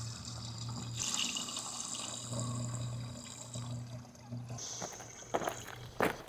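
Liquid pouring and trickling, with a steady low hum beneath, then a few sharp knocks near the end.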